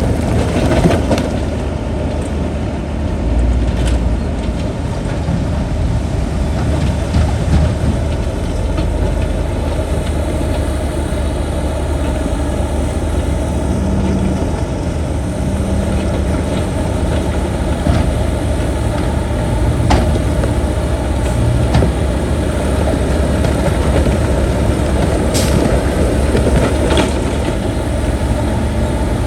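Heavy diesel earthmoving machinery (bulldozer or dump truck) with its engine running steadily and a deep low rumble. A few sharp knocks are heard in the second half.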